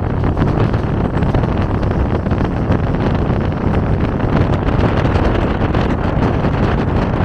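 Mumbai suburban local train running at speed, heard from on board: a steady rumble of the carriage on the rails mixed with wind buffeting the microphone.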